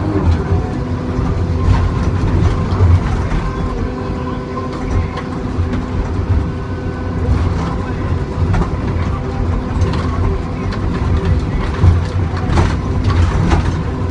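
John Deere 2954D log loader's diesel engine running steadily under hydraulic load, with a few sharp knocks and clunks scattered through, the loudest near the end.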